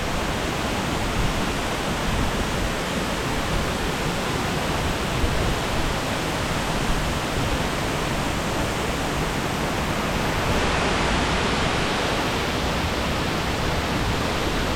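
Waterfall rushing at close range, a loud, steady, unbroken roar of falling water.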